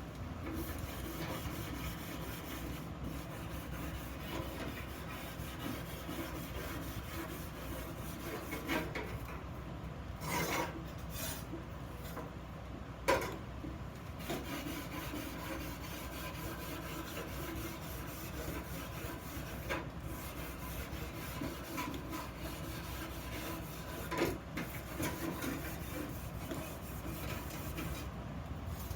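Steady rasping and rubbing on an iron workpiece, as in hand finishing work, with a few sharp knocks about ten, thirteen and twenty-four seconds in.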